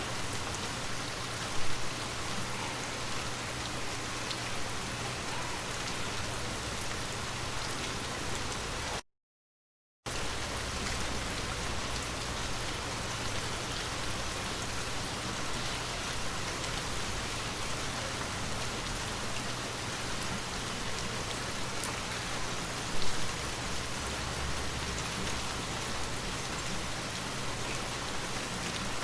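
Steady rain falling on surfaces, an even hiss with scattered drop sounds. Two brief louder hits stand out, one near the start and one about three quarters of the way through, and the sound drops out completely for about a second just past the one-third mark.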